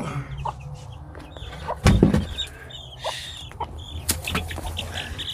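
Handling and knocking noises as a hen is picked up and moved in a chicken house, with one heavy thump about two seconds in and a brief rustle a second later. Faint, short chick peeps run underneath.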